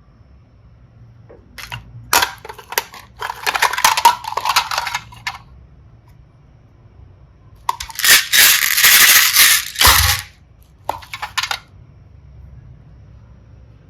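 Small hard pieces clattering and crackling as they are handled, in two bursts of dense clicking, with a few single clicks between them.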